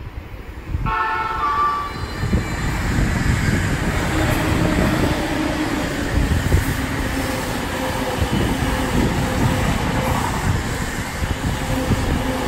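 Commuter electric train sounding a short horn blast of about a second, several steady tones together, a driver's greeting in reply to waving. The train then runs past with a continuous rumble of wheels on the rails.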